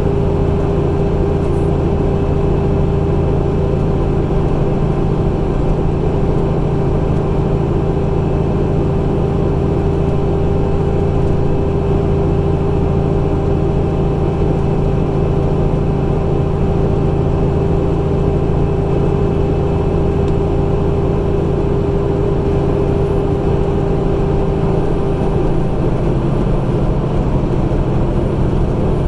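Semi truck's diesel engine pulling steadily under load up a steep grade: a constant low drone with a steady whine over it.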